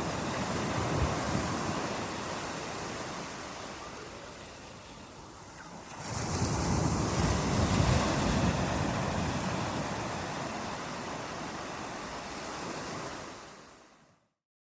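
Ocean surf: waves washing in and drawing back, one surge fading away, a second wave coming in about six seconds in and slowly ebbing, then the sound fades out to silence near the end.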